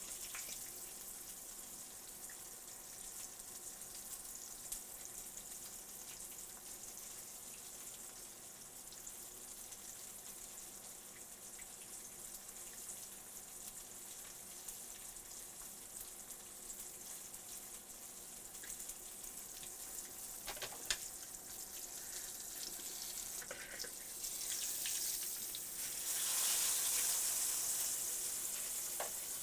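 Cracker-crumb-breaded cube steaks frying in hot oil in a skillet: a steady sizzle that grows louder near the end, with a single sharp click shortly before.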